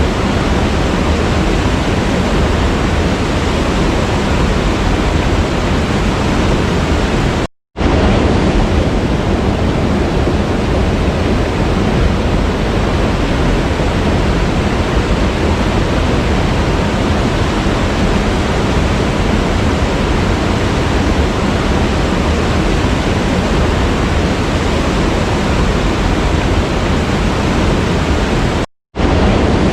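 Waterfall rushing in a steady, dense roar of water noise. It cuts out to silence for a fraction of a second twice, about eight seconds in and near the end.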